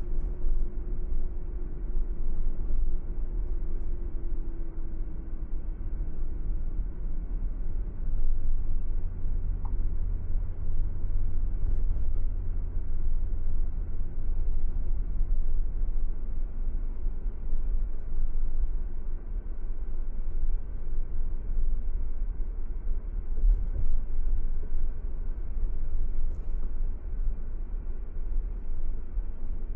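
Car driving at a steady speed: a constant low rumble of road and engine noise, with a faint hum that sinks slightly in pitch over the first few seconds.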